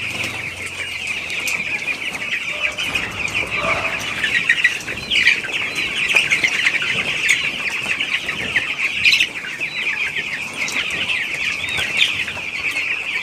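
A large flock of 14-day-old chicks in a poultry shed, peeping continuously, with many high cheeps overlapping into one dense chorus.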